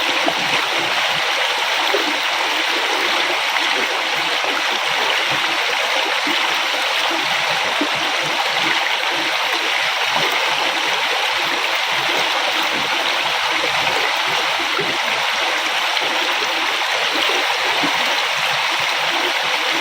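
River flowing steadily: a constant, even rush of moving water.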